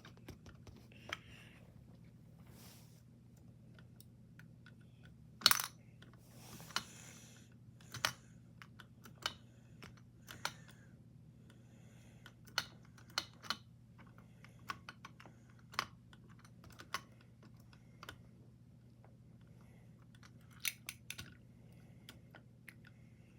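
Irregular small clicks and knocks from a toy garbage truck and dumpster being handled as the dumpster is emptied, about a dozen, the loudest about five and a half seconds in, over a faint steady hum.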